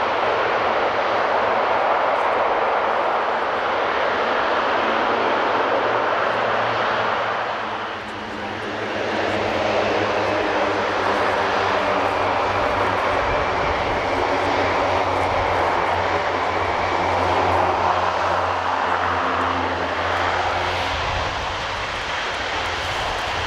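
Airbus A400M's four turboprop engines and large propellers running steadily, with a brief dip in level about eight seconds in.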